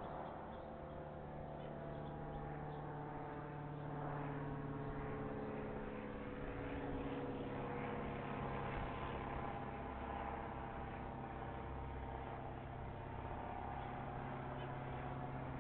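Steady low mechanical hum of engine noise, like traffic or an idling vehicle, with its pitch shifting slowly.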